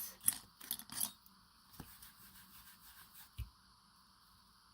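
Paper and craft materials being handled on a tabletop: a few short scratchy rustles in the first second or so, faint rubbing after that, and a soft thump about three and a half seconds in.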